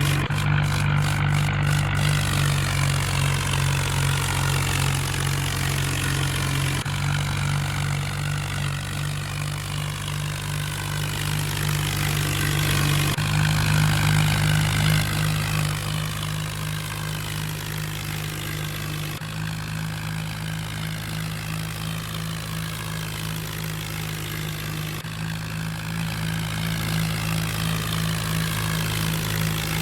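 New Holland tractor's diesel engine running steadily, its pitch and tone shifting abruptly a few times.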